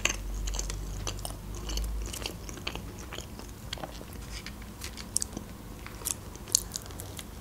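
A person chewing a mouthful of homemade mini pizza close to the microphone, with scattered short wet mouth clicks and smacks, a few sharper ones in the second half.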